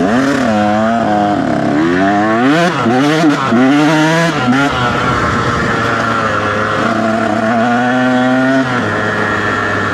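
Dirt bike engine under way, revving up and down repeatedly through the first half, then holding a steadier note that drops near the end.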